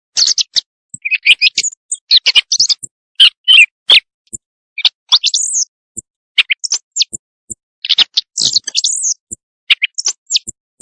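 Recorded bird calls played as a hunting lure: quick runs of high, thin chirps and short whistled phrases, repeated with dead silence between them.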